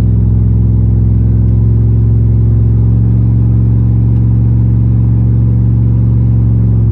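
A 2004 Chevy Z71 pickup's stock 5.3-litre V8 pulling in third gear, heard from the cab as a steady low engine drone.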